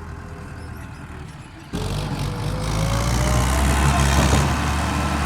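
Mahindra tractor's diesel engine running, then suddenly much louder about two seconds in and staying loud with a strong low engine drone.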